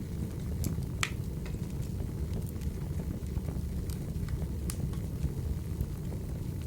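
Wood fire burning: a steady low rumble of flames with scattered sharp crackles and pops, one louder pop about a second in.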